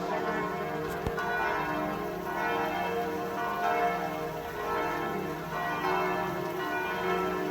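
Bell-like ringing tones, many pitches sustained and overlapping, swelling and fading slowly, with a brief click about a second in.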